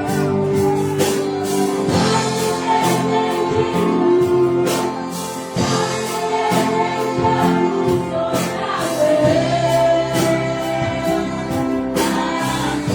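An orchestra and choir performing a Christian worship song, with held sung and instrumental notes over a steady beat.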